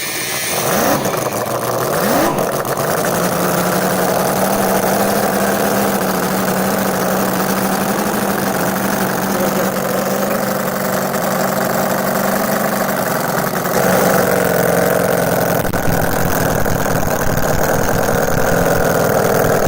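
Conley Engineering Stinger 609 quarter-scale V8 with a twin-screw blower starting up, its pitch climbing over the first couple of seconds as it comes up to speed, then idling steadily. About 14 seconds in it picks up to a higher, louder speed.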